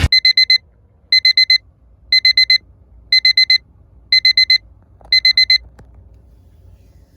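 Digital alarm beeping in groups of four quick high beeps, six groups about a second apart, then stopping. It marks the end of class.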